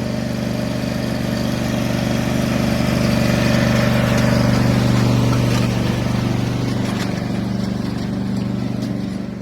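An engine running at a steady speed, growing a little louder toward the middle and easing off near the end.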